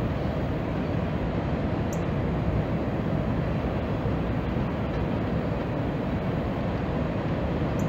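Freight train rolling across a tall steel trestle, heard from a distance as a steady low rumble of cars on the bridge.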